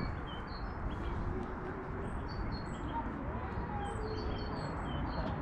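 Small songbirds chirping, many short high notes from several birds scattered throughout, over a steady background of outdoor noise.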